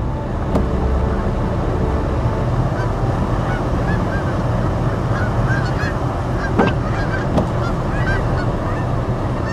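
A flock of Canada geese honking, many short overlapping calls that start a couple of seconds in and keep going, over a steady background rumble.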